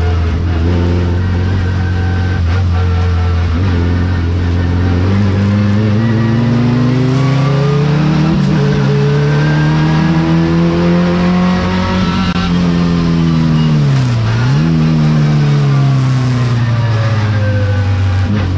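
Modified race car's engine heard from inside the stripped, caged cabin under racing load. It holds steady revs, then climbs slowly over several seconds, dips briefly and sharply about fourteen seconds in, falls away, and rises again near the end.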